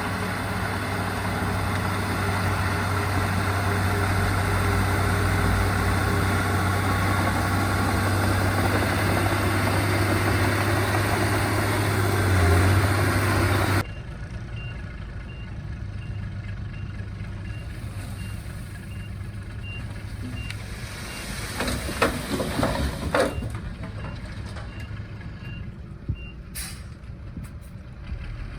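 Heavy diesel earthmoving machinery running steadily with a deep hum. About halfway through the sound drops abruptly to a quieter scene where a reversing alarm beeps at even intervals, with a few clanks.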